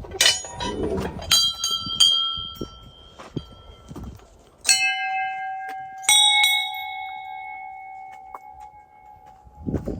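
Metal temple bells being struck: a higher bell rung about a second in, then a deeper bell struck twice near the middle, each strike ringing on and slowly fading. A few light knocks come before the first ring.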